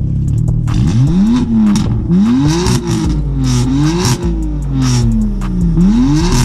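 BMW M3's straight-six being revved while stationary: a steady idle, then about five throttle blips from about a second in, each rising and falling away slowly.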